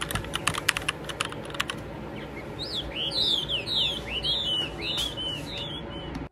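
A quick run of sharp clicks over the first two seconds, then a bird singing a string of short falling chirps, about three a second, over steady background noise.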